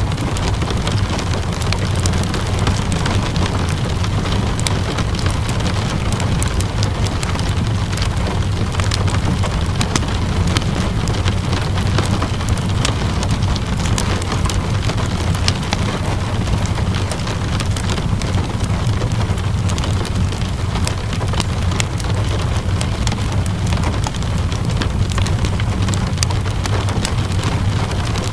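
Ambience of steady rainfall and a crackling wood fire: a constant hiss of rain over a low rumble, with frequent small, sharp crackles.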